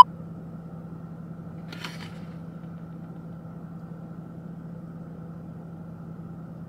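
Steady low hum of a car engine idling, heard from inside the cabin, with a faint click about two seconds in.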